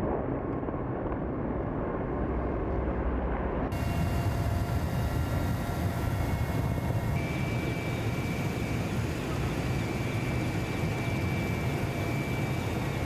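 Military aircraft flying over, a steady jet engine noise; about four seconds in the sound changes abruptly to a brighter, fuller noise with a faint steady whine.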